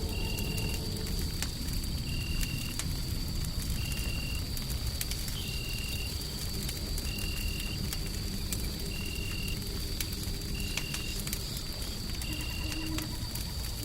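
Wood fire crackling with scattered sharp pops over a steady low rumble of white noise. A short high chirp repeats about every second and a half.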